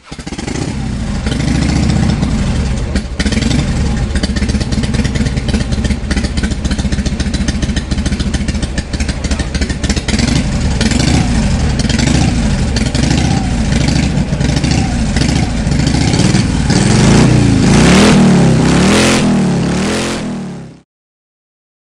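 Harley-Davidson air-cooled V-twin motorcycle engine running and being revved over and over, its pitch rising and falling. It is loudest in the last few seconds, then cuts off suddenly near the end.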